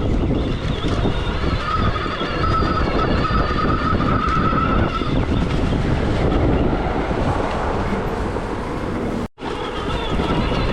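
Stark Varg EX electric dirt bike being ridden off-road: a high electric-motor whine that wavers in pitch with speed, over a heavy low rumble. The sound drops out for a split second about nine seconds in.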